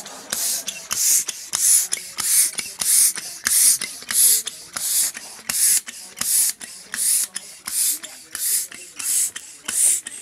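Hand air pump worked in quick, even strokes, each stroke a short hiss of air, about three every two seconds, blowing air into a campfire to fan the embers into flame.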